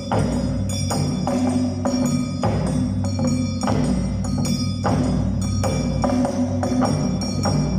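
Awa Odori dance music played live: a steady rhythm of drum strikes under sustained, ringing high tones.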